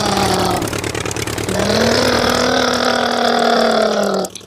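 Imitation vehicle engine sound for a toy tractor: two long drones, each rising and then falling in pitch, with a short break about a second in. It cuts off just before the end.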